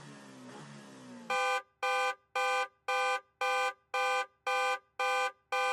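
Electronic quiz countdown-timer beeping: nine short, identical multi-tone beeps at about two a second, starting about a second in after a soft background sound.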